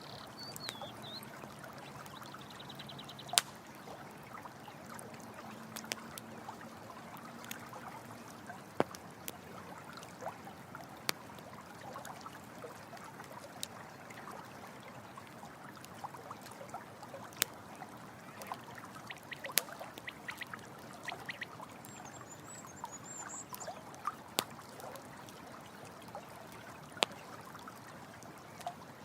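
Steady running water of a stream, with a campfire crackling over it in scattered sharp pops, the loudest a few seconds in. A few faint high chirps sound in the background.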